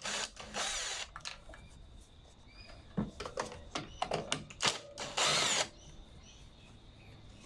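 Power driver spinning briefly twice to back out the screws that hold the air filter base of a Briggs & Stratton 500E lawnmower engine. Between the two runs there are light clicks and knocks of handling.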